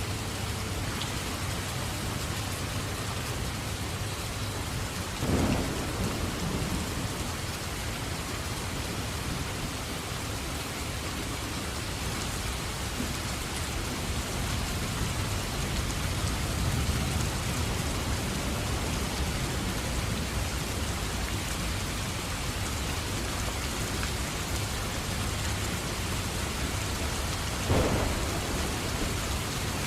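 Steady heavy rain with a low rumble of thunder underneath. There are two short, louder thumps, one about five seconds in and one near the end.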